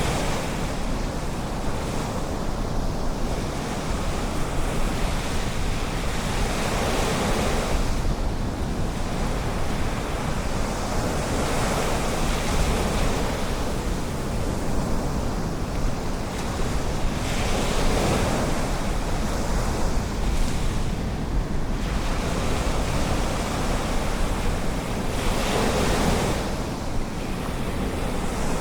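Ocean surf breaking and washing ashore, with a swell in the wash every several seconds, over a steady low wind rumble on the microphone.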